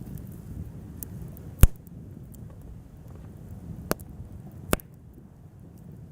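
Wood bonfire crackling, with small ticks and three sharp pops, the loudest about a second and a half in and two more close together near four to five seconds, over a low steady rumble.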